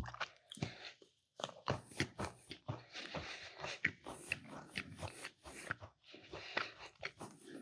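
Close-up chewing of a crunchy mini chocolate chip cookie: irregular crunching and wet mouth clicks, with a couple of short pauses.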